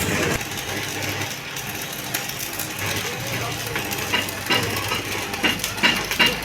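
Metalwork on a steel tractor trolley: a low steady hum, then from about four seconds in a quick run of sharp metallic clinks, each ringing at the same high pitch, about two to three a second.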